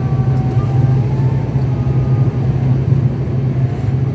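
ATR 72's twin turboprop engines and propellers droning steadily, heard from inside the passenger cabin.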